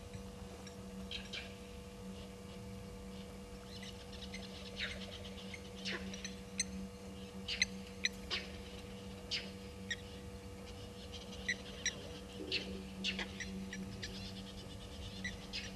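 Wild birds calling in short, high chirps, scattered irregularly and loudest about halfway through, over a steady low hum.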